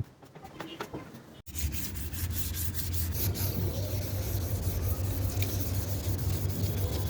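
Quiet at first, then after an abrupt cut a power tool's steady low hum with a rasping, rubbing noise, as of a pad working against a surface.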